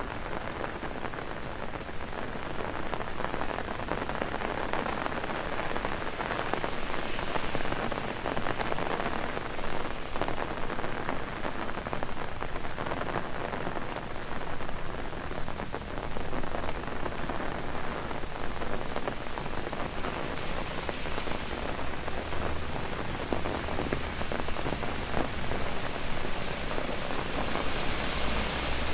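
Heavy rain falling on an umbrella overhead: a dense, steady spatter of drops.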